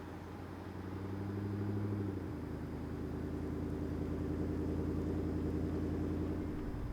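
A GMC Sierra HD pickup truck's engine pulling as it drives, growing louder about a second in. Its pitch drops once about two seconds in, then holds steady.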